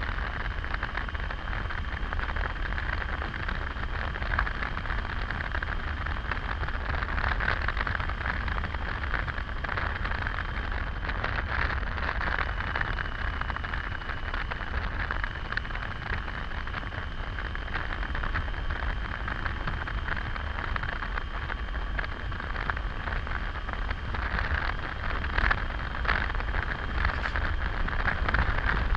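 Steady wind rush and road noise from a motorcycle riding at speed, with a low buffeting rumble and hiss, a faint steady whine running under it.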